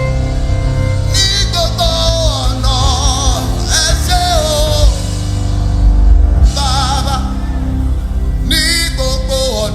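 Live gospel worship song: a voice sings phrases with vibrato over held instrumental chords and a steady bass.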